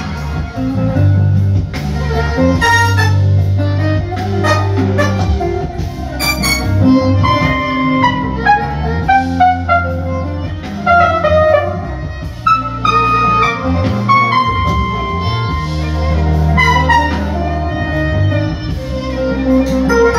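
Instrumental band music: drum kit and bass guitar under a melody line that slides between notes.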